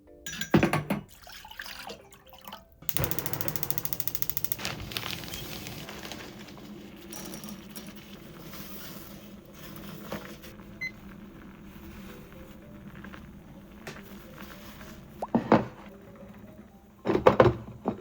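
Cooking sounds: a knock, then a sudden loud hiss about three seconds in that eases into a steady quieter hiss, with more knocks near the end.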